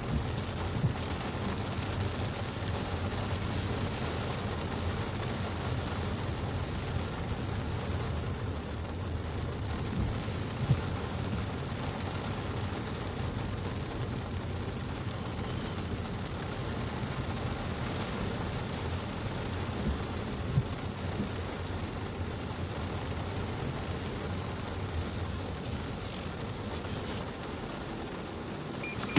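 Heavy rain falling steadily on a car's roof and windscreen, heard from inside the cabin over a low hum from the vehicle.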